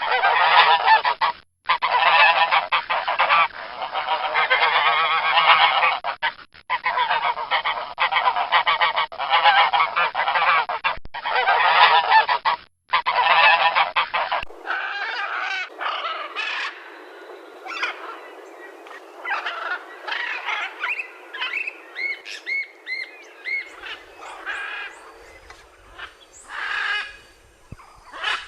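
A flock of geese honking, dense and loud, in several blocks with brief breaks. About halfway through it gives way to quieter, sparser bird calls: short chirps and repeated down-slurred notes.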